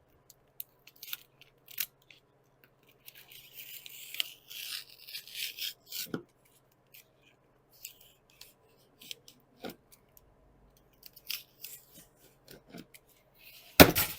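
Scraping and rubbing of a sheet of sound-deadening mat being handled, loudest for a few seconds from about three seconds in, with scattered light taps and clicks.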